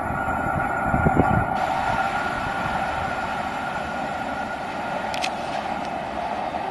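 Running noise of a passenger train's wheels on the rails as it moves away down the track: a steady rolling hiss that eases slightly after the first second or two.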